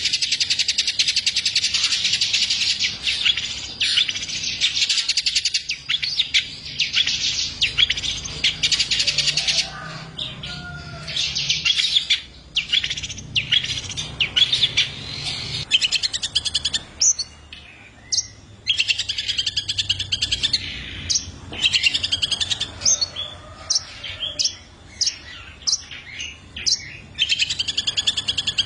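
Long-tailed shrike (cendet) in full song: long runs of very fast, high chattering notes, broken by a few brief pauses.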